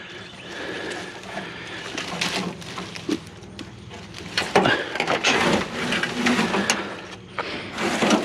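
Briars and brush rustling and crackling as they are pushed through, with irregular scrapes and knocks from something being pulled out of them.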